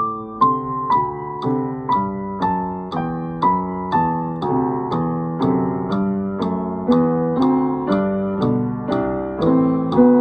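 A piano playing a simple beginner's piece at a steady, slow pulse, a new note or chord about every half second, with a light click marking each beat.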